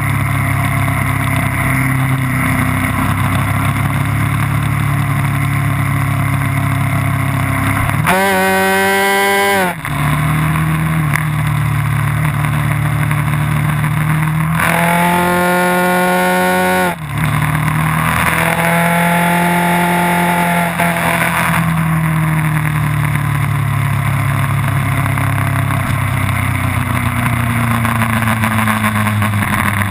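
Onboard sound of a vehicle lapping a race track: the engine runs steadily at speed under a haze of wind noise. About 8 and 15 seconds in, the engine revs hard, its pitch climbing quickly, and each time it cuts off briefly. Near the end the engine note slowly falls.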